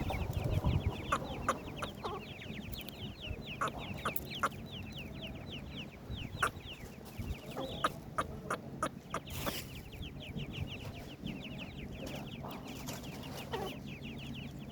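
Partridge (teetar) chicks peeping: a dense run of short, high chirps that slide down in pitch, many overlapping each second, with scattered sharp clicks.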